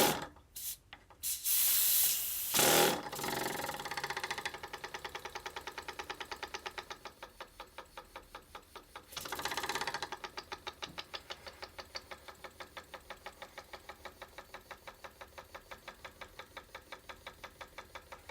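Small single-acting oscillating steam engine running on compressed air. Loud bursts of air hiss come in the first few seconds and again about nine seconds in, over a steady rapid chuff of exhaust puffs, about five a second.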